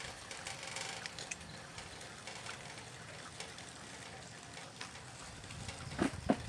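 Model radio-controlled Liebherr 954 excavator at work: a low rustle with scattered small clicks, then two sharp knocks close together near the end.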